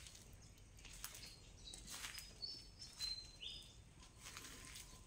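Faint high chirps of small birds: a few short calls between about one and a half and three and a half seconds in, with scattered light clicks and taps.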